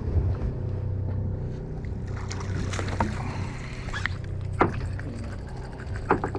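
A fishing party boat's engine running with a steady low hum, and a few sharp knocks on deck.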